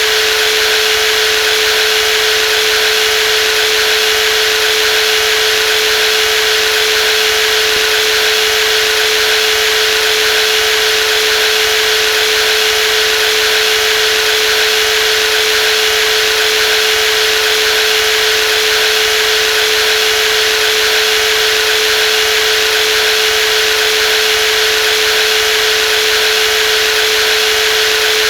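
Brushless jigsaw running continuously at steady speed: an unbroken motor whine with a strong steady hum and a dense hiss above it.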